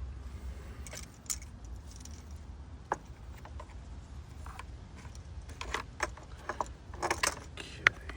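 Scattered light clicks and rattles of a plastic EVAP line and its clips being handled and fitted, sparse at first and busier in the second half, with one sharp click near the end, over a steady low rumble.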